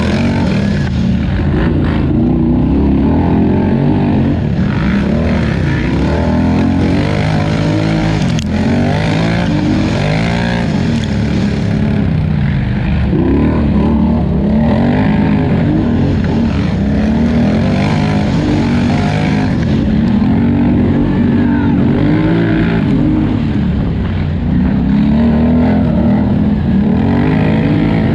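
Polaris Scrambler 1000 XP ATV's twin-cylinder engine racing, revving up and down without a break as the throttle is worked, its pitch rising and falling every second or two. A single sharp knock about eight seconds in.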